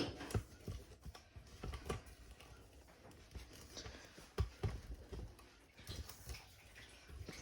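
Camera tripod being handled and adjusted: irregular light clicks and knocks with a few dull thumps.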